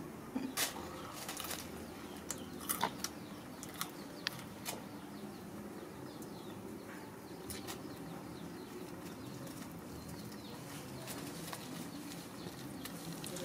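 Soft eating sounds of mango being chewed, scattered small clicks and smacks that come more often in the first few seconds, over a steady low rustle.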